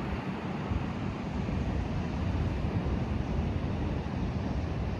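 Wind buffeting the microphone outdoors on the river: a steady rushing noise with a rumbling, fluttering low end.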